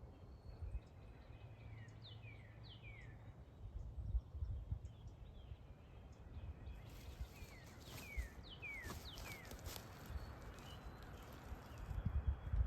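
Wind rumbling on the microphone while a songbird sings short, clear notes that slide downward, in quick groups of two or three, twice, with a gust of hiss in the middle.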